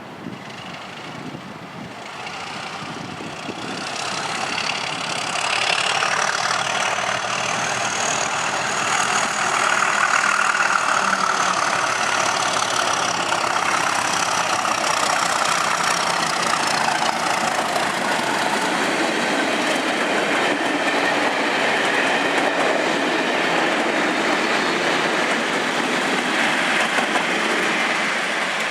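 Pair of Class 37 diesel locomotives with English Electric V12 engines thrashing at full power as they pass, with a high turbocharger whistle. The sound builds over the first five seconds and then stays loud.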